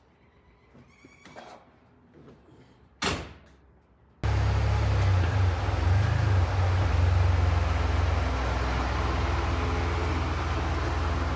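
A few faint knocks and one sharp knock about three seconds in, then a car engine running steadily with a deep low rumble, starting abruptly about four seconds in.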